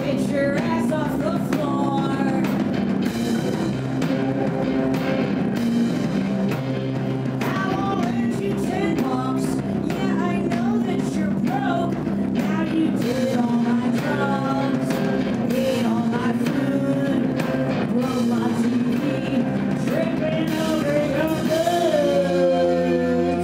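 Live rock band playing loudly: drum kit, guitar and bass, with a wavering lead line bending in pitch over them. Near the end the drum hits thin out and a held low chord rings on.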